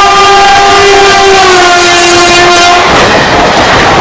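Indian Railways WAP-7 electric locomotive sounding a long horn blast as it passes, the pitch dropping slightly partway through and the horn cutting off about three seconds in. The noise of the passenger coaches rolling past follows.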